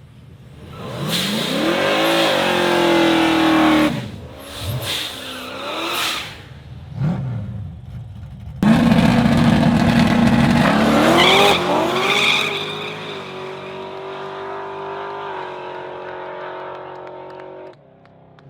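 Drag race car's engine revved hard several times, pitch rising and falling, then a loud full-throttle run: the engine climbs in pitch, shifts, and settles into a steady high drone before dropping off near the end.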